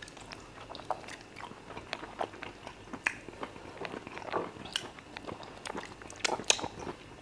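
Close-miked chewing and wet mouth sounds of people eating fufu with peanut spinach soup and chicken by hand: scattered soft smacks and clicks.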